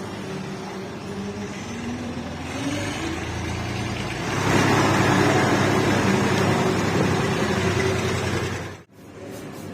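A motor running steadily, its pitch rising about two to three seconds in. It grows much louder with a rushing noise from about four and a half seconds in, then cuts off suddenly near the end.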